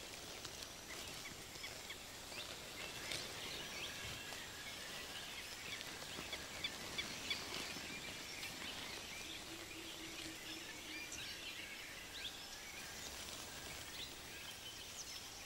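Faint natural ambience: many small birds chirping in short high calls over a soft steady background hiss.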